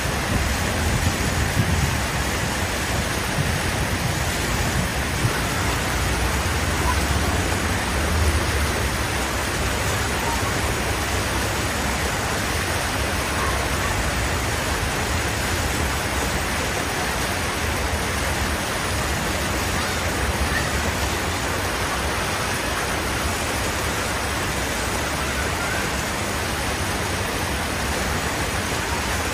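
Steady hiss of heavy rain with the low rumble of vehicle engines, the rumble stronger in the first several seconds.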